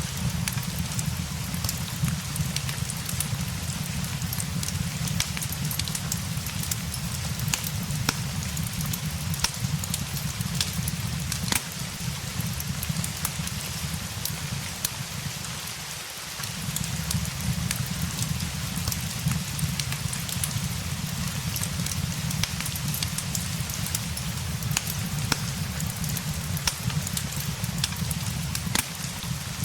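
Steady rain patter with scattered sharp crackles and clicks from a fireplace. A low rumble runs underneath and drops out for a moment a little past halfway.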